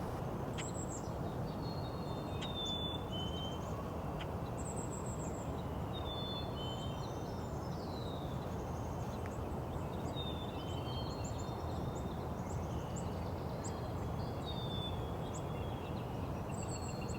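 Several songbirds singing over one another in a spring chorus: thin high whistles and short descending phrases, with a northern flicker's evenly repeated call joining near the end. A steady low rumble runs underneath.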